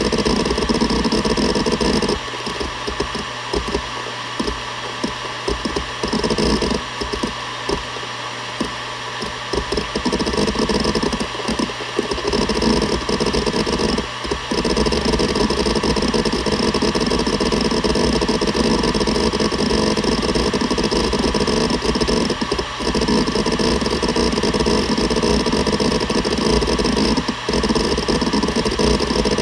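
Seagate Barracuda ES.2 ST31000340NS 7200 rpm hard drive spinning with a steady whine while its heads seek in dense, irregular clatter. The seeking thins out into gaps for several seconds starting about two seconds in, then carries on steadily.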